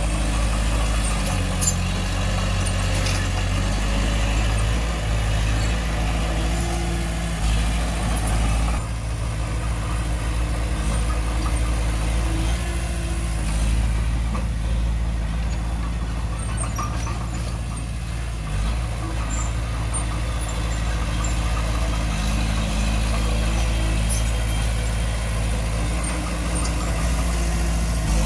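Heavy-equipment diesel engine running steadily with small rises and falls in load, with a few faint clanks.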